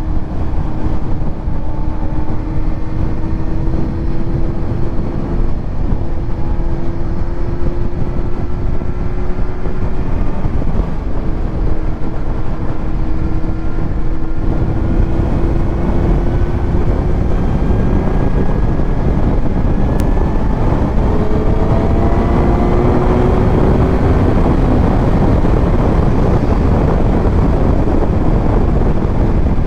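Kawasaki Z900's inline-four engine running through a titanium Arrow exhaust under heavy wind rush on the microphone while riding. The engine note climbs slowly, drops back, and climbs again a few times as speed builds.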